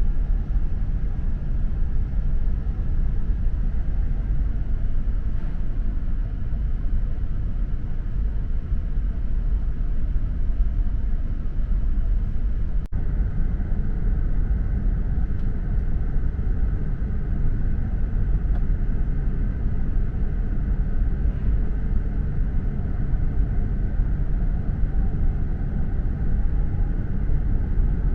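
Steady low rumble inside the lower-deck cabin of an E4 series 'Max' double-decker Shinkansen while the train runs, with a momentary break about 13 seconds in.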